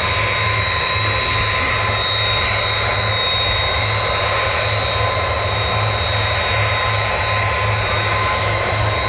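Jet airliner engines running steadily: a constant high whine over an even rushing noise, with no rise or fall in level.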